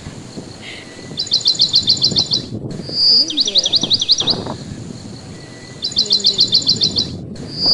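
A songbird singing the same phrase three times: a fast run of about ten high, sweeping notes lasting about a second, the second phrase opening with a short held whistle. Underneath is a low rumble of wind.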